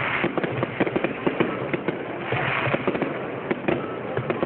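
Fireworks display: a dense, continuous run of bangs and crackles, with irregular sharp reports over a steady rumble of distant bursts.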